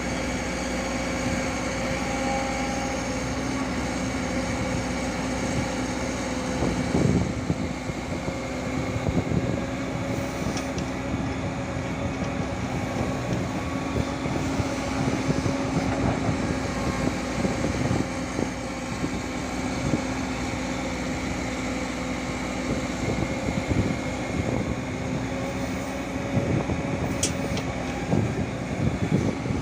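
Komatsu PC205-10M0 hydraulic excavator running with a steady engine drone, with irregular knocks and clatter starting about seven seconds in.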